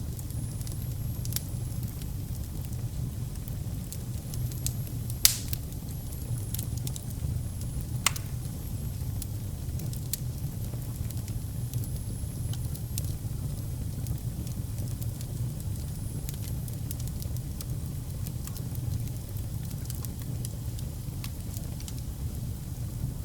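Wood fire burning in a fireplace: a steady low rumble of flames with scattered crackles, and two sharper pops about five and eight seconds in.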